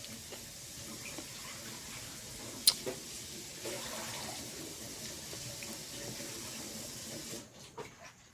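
Water running steadily, then cutting off about seven seconds in. A single sharp click partway through is the loudest sound.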